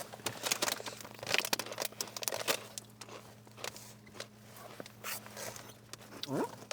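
Food wrapper or packaging crinkling and rustling in irregular crackles as it is handled, over a steady low hum.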